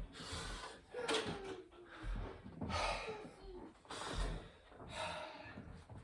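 A man breathing hard and heavily, gasping breaths in and out about once a second, with a short falling groan about a second in: he is winded from high-rep burpees.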